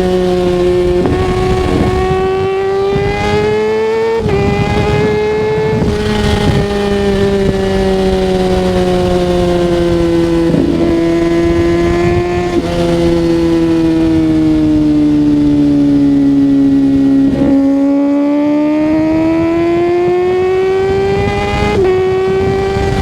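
Kawasaki ZX-6R 636's inline-four engine under way, its pitch slowly rising and falling as the rider works the throttle, with brief breaks and pitch jumps at gear changes about a second in, around four, ten, twelve and a half, seventeen and a half and twenty-two seconds in. Rough wind buffeting on the microphone lies under it.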